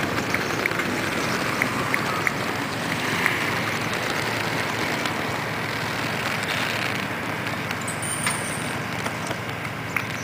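Running footsteps on a road amid steady outdoor noise, the footfalls coming as light regular ticks about three a second near the start and again near the end.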